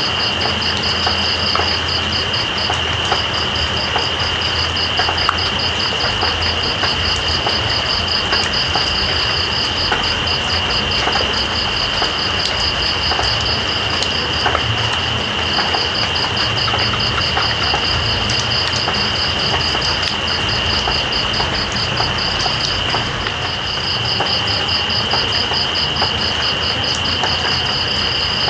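Steady rain hiss with scattered drip ticks, under night insects calling: one continuous high buzz, and above it a rapid pulsing trill that pauses briefly a few times.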